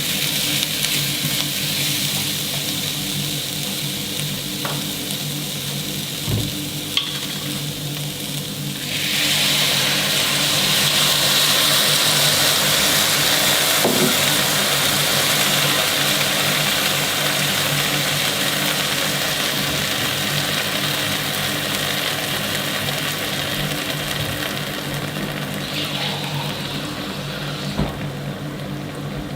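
Food frying and sizzling in a pan, a steady hiss that grows louder about nine seconds in, with a few light knocks and a low steady hum underneath.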